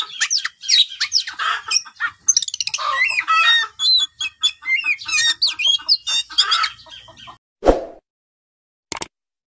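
Birds chirping and calling in quick, overlapping high-pitched notes until about seven seconds in, then a single thump and a short click.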